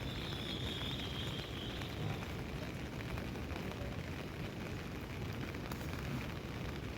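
Steady rain falling, an even continuous noise with no break.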